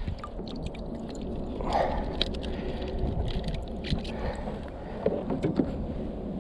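Scattered small clicks and rustles of handling a freshly caught bass and a fish scale in a kayak, over a low steady rumble of wind on the microphone.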